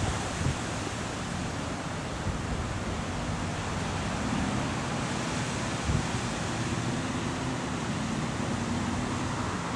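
Steady wind noise rushing over the microphone, with a faint low hum underneath.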